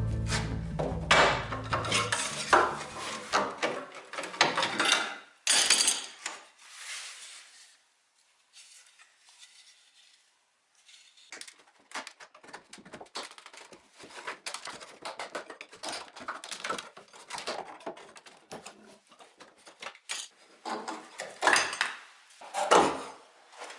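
Hard objects clinking, knocking and rattling as they are handled, in irregular clusters with a quiet pause partway through and a few louder scraping sweeps near the end. Background music fades out at the start.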